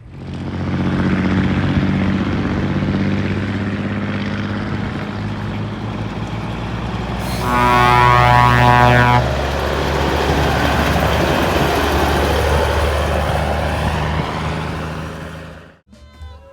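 Truck diesel engine, the 1967 White Freightliner's 335 Cummins six-cylinder, running steadily. A horn sounds once for about two seconds near the middle, the loudest part. The engine sound cuts off shortly before the end.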